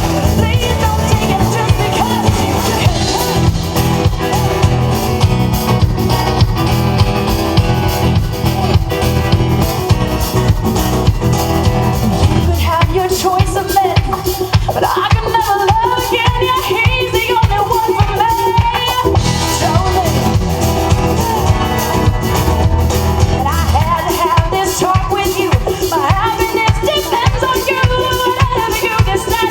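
Country band music. Full drums and bass play until about twelve seconds in, then drop away to a lighter passage carried by a wavering melody line.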